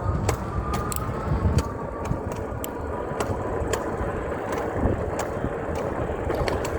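Electric bike riding on a wet road: steady road and tyre noise with a faint high whine and scattered sharp clicks.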